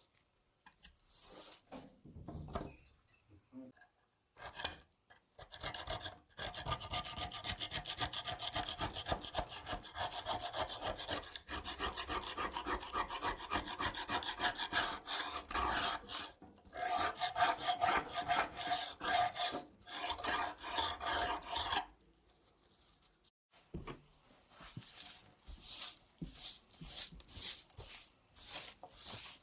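Rasping strokes of a hand file on the knife: a long run of quick back-and-forth strokes, a short pause, then slower separate strokes near the end.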